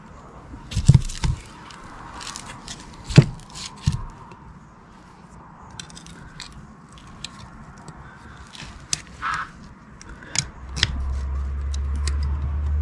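Parts of a Renault starter motor being handled and scraped on a workbench: scattered light clicks and a few knocks. About ten seconds in, a steady low hum starts.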